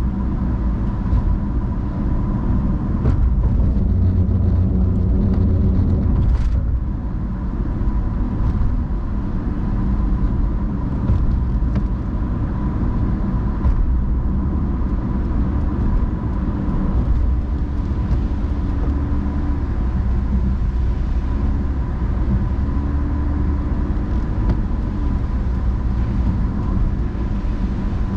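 Car driving in the rain: a steady low rumble of engine and road noise, with a few faint clicks.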